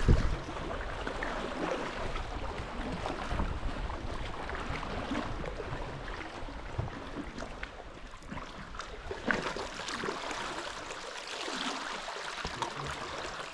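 Water splashing and lapping around a sea kayak as it is paddled, with a few sharper paddle splashes.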